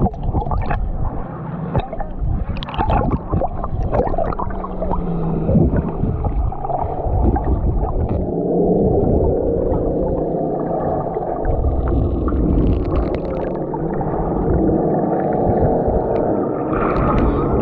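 Muffled underwater sound of a camera held in shallow sea water: water rushing and gurgling with scattered sharp clicks and splashes, settling into a steadier wash about halfway through.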